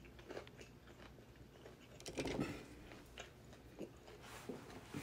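Close-up mouth sounds of a person chewing food, with soft wet crunches, faint overall and busiest about two seconds in.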